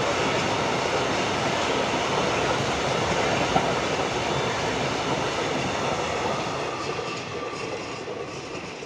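Freight train of rail tank wagons rolling past: a steady rumble and rattle of wheels on rail that fades over the last few seconds as the end of the train goes by.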